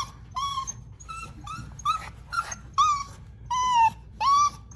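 Portuguese water dog puppy whining in a string of short, high cries, about two a second, some falling in pitch. The puppy is protesting having its nails clipped, which its owner says does not hurt it.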